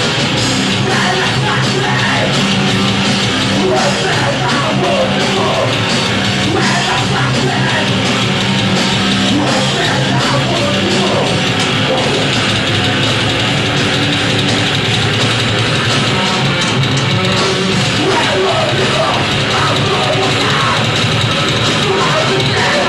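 A live rock band playing loud, heavy, distorted rock music without a break.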